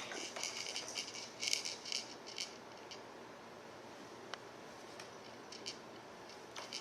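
Plastic toys on a Fisher-Price Rainforest Jumperoo rattling in a string of short, quick bursts over the first three seconds, followed by only a couple of faint clicks.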